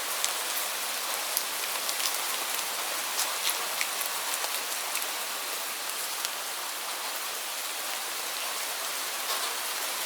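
Heavy rain falling steadily: a dense, even hiss with individual drops ticking and splattering throughout.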